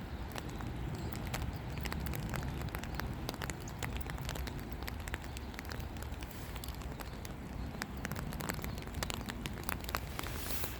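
Rain pattering in many irregular sharp ticks, over a steady low rumble.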